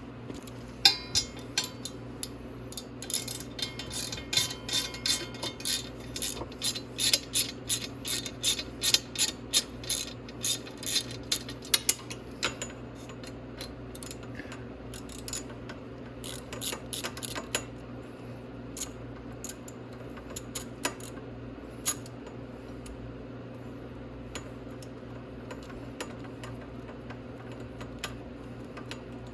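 Socket ratchet clicking as the exhaust manifold bolts are worked loose: a run of quick clicks lasting about ten seconds, then scattered single clicks and tool clinks over a steady low hum.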